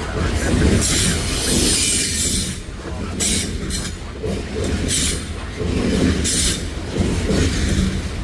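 CP Rail coal train cars rolling past with a steady rumble of wheels on rail. High-pitched screeching from the wheels comes and goes every second or so.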